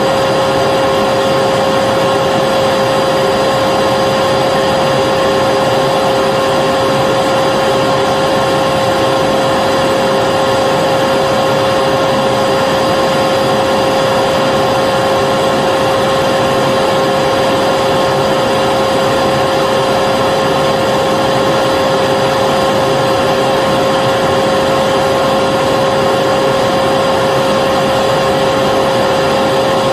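Vacuum cleaner running continuously at a steady pitch, a constant motor whine over a rush of air.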